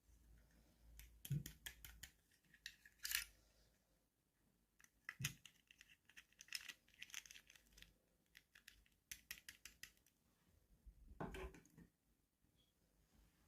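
Faint, scattered clicks, taps and crinkles of toy packaging being handled and opened by hand.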